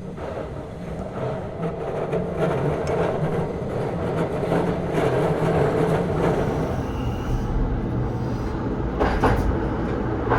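Electric train running on rails: a steady rumble and hum that fades up over the first couple of seconds, with a brief sharper noise about nine seconds in.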